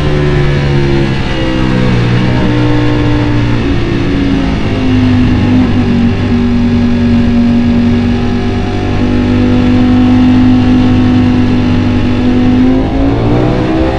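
Ducati Panigale V4 motorcycle engine at speed: its pitch falls over the first few seconds as the revs drop, holds steady while cruising, and climbs again near the end as the throttle opens.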